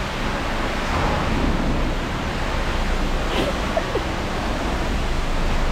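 Steady hiss of a water jet spraying against a truck's rocker panels to wash them.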